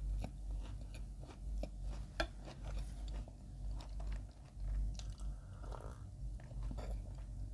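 Close-miked chewing of a mouthful of soft white bread with spread, with many small wet mouth clicks. In the second half come sips and swallows from a mug of coffee.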